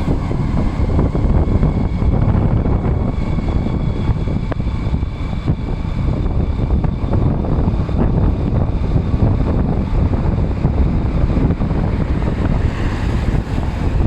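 Steady wind rush buffeting the microphone on a moving boda boda motorcycle taxi, with the motorcycle's engine running underneath.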